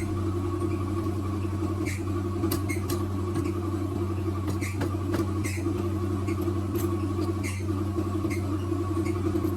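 A steady mechanical hum with scattered short clicks and squeaks over it.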